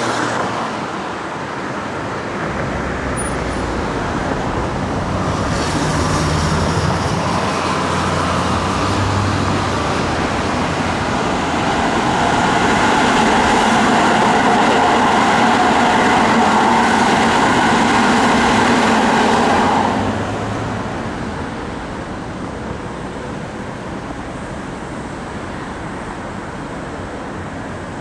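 Hokuso 7300 series electric train running past on the line, with the steady noise of wheels on rails building up and at its loudest in the middle. The noise drops suddenly about twenty seconds in, leaving a lower steady rumble.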